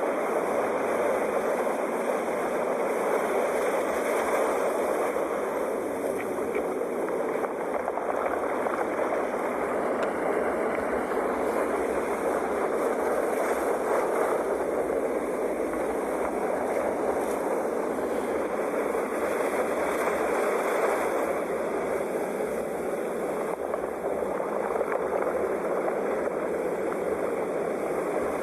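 Sea waves washing ashore, a continuous wash of surf that swells and eases every several seconds.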